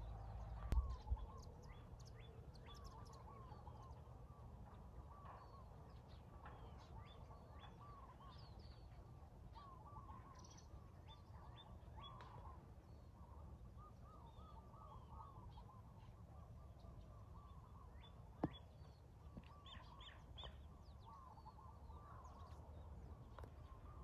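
Faint, repeated short bird chirps over a quiet outdoor background, with a single sharp click about eighteen seconds in.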